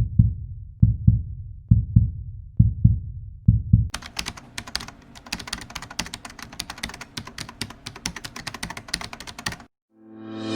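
Intro sound effects. First comes a heartbeat, low double thumps just under a second apart. Then rapid typing-like clicking runs for about six seconds and cuts off. Music swells in near the end.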